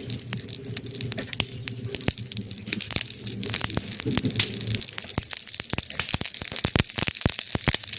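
Campfire crackling, with frequent sharp pops of burning wood. A low steady hum sits underneath for the first five seconds or so, then stops.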